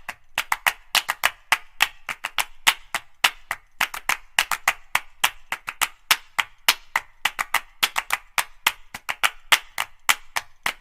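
Sharp hand-clap percussion beating a quick, even rhythm of about five claps a second, with no bass or melody under it.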